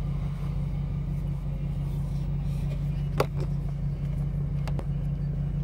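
Car idling in a queue, heard from inside the cabin as a steady low hum. A single sharp click about three seconds in, and a couple of faint ones a little later.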